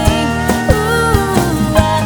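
Alt-country band playing: guitars over a steady drum beat, with a melody line that slides and bends in pitch about halfway through.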